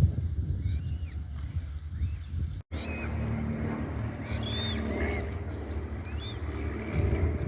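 Birds calling with short, high chirps, many rising or falling in pitch, over a steady low rumble. The sound cuts out for an instant about a third of the way in.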